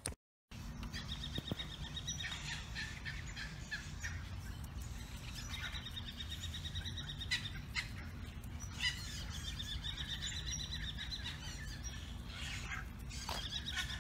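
Wild birds singing in several phrases of rapid, high trills, each about two seconds long, over a steady low rumble.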